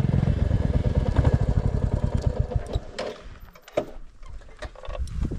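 Single-cylinder Royal Enfield Classic 350 engine being switched off: its low thumping beat slows and dies away over about three seconds. A few sharp clicks and knocks follow.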